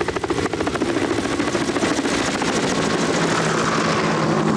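Helicopter rotor blades chopping the air in a rapid, even beat over a steady engine hum.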